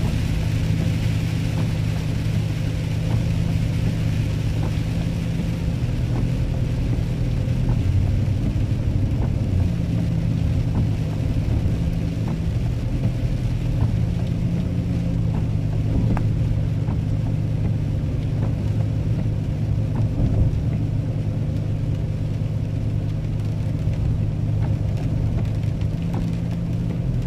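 Steady drone of a car's engine and tyres on wet road, heard from inside the cabin while driving in the rain.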